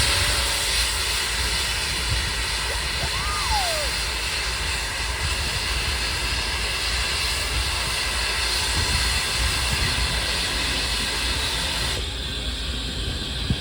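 Steam locomotive N&W 611 venting steam: a loud, steady hiss that cuts back about twelve seconds in.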